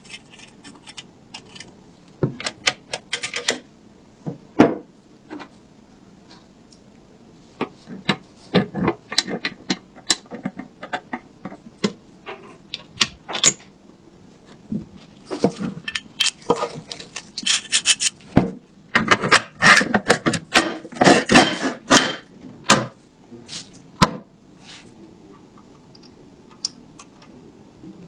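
Hand work on small parts: irregular rubbing and scraping with many sharp clicks and taps. It is busiest in the second half, with a dense run of scratchy strokes.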